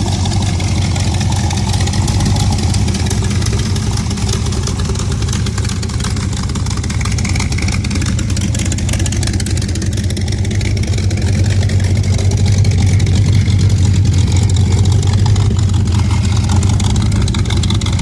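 A T-bucket hot rod's 350 V8 engine running at a steady idle, getting a little louder for a few seconds about two-thirds of the way through.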